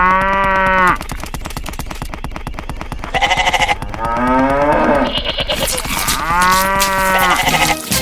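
A cow mooing twice, at the start and again near the end, each call about a second long, over a fast, steady rattling clatter.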